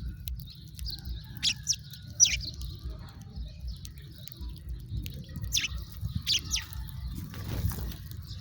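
House sparrows chirping: short, sharp, downward-sweeping chirps in small clusters, a little over a second in and again past the middle. A steady low rumble runs beneath them.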